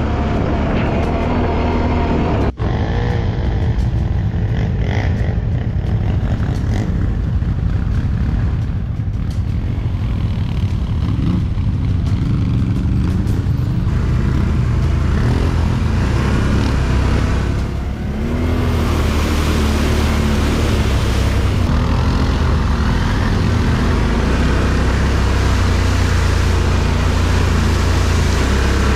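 Engines of off-road motorcycles and quads running together in a steady low drone, with occasional revs rising and falling. There is a sharp click or break about two and a half seconds in.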